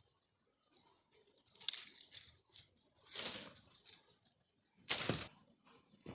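Dry grass, leaves and twigs rustling and crunching in three separate bursts as firewood is gathered, with a sharp crack about a second and a half in.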